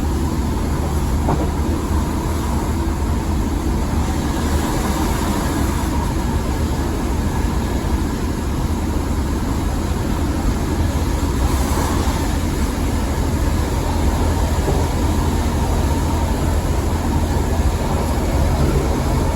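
Steady running noise inside a moving diesel passenger train: a constant low rumble of the engine and wheels on the track, with a few steady hums above it.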